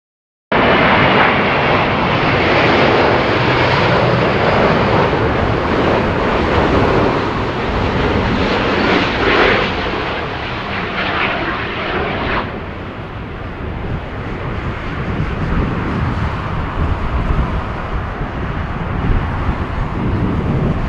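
Jet airliner's engines running loud as it comes in to land. The upper hiss drops away suddenly about twelve seconds in, leaving a lower, steadier rumble.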